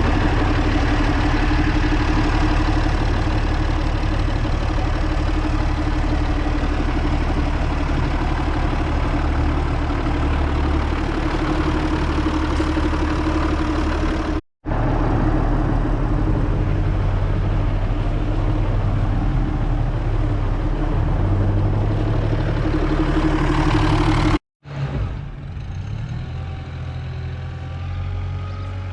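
Zetor 16145 tractor's turbocharged six-cylinder diesel running loud and steady through a straight-pipe exhaust. The sound cuts out abruptly twice. After the second break it is quieter, with a faint whistle rising and falling.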